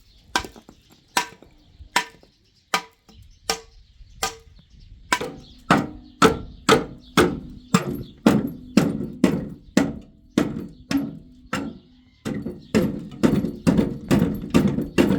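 Repeated blows of a tool striking a hard surface, each with a short dull ring. They come about once a second at first, then quicken to roughly two a second, with a brief pause shortly before the end.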